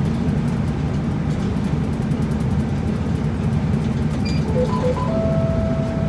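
Route bus running, a steady low engine and road drone inside the cabin. About four seconds in, a short electronic chime of a few quick paired beeps is followed by a held tone of about a second and a half.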